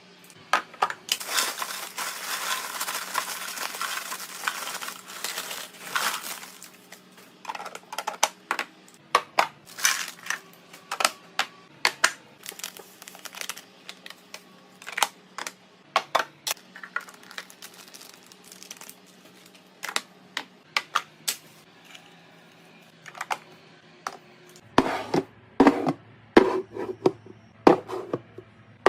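Packaging crinkling for a few seconds, then a long run of separate clicks and taps as items and containers are handled and set down while restocking, with heavier knocks coming thick and fast near the end.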